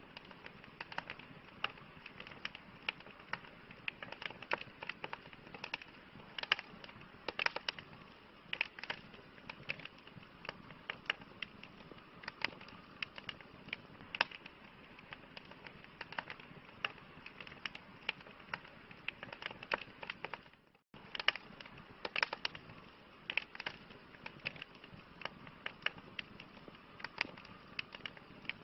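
Campfire crackling: frequent irregular sharp pops and snaps over a steady low hiss. The sound cuts out for a split second about two-thirds of the way through.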